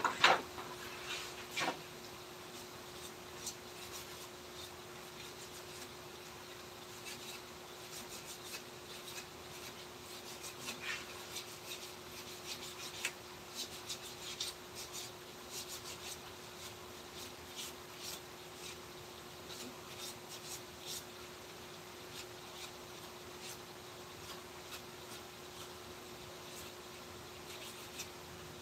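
A hand tool scraping wood in short, irregular strokes, with two sharper knocks near the start and a faint steady hum underneath.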